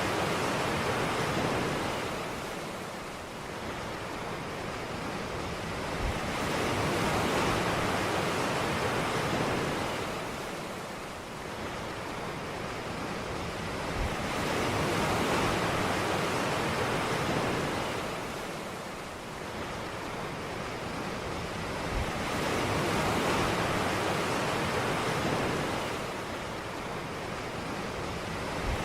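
Ocean surf: waves breaking and washing up the beach, the rush of water swelling and receding about every eight seconds.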